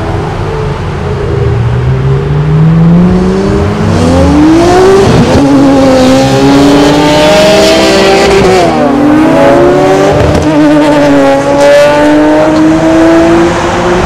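A car engine accelerating hard through the gears, its pitch climbing, dropping at two upshifts about five and nine seconds in, then climbing again.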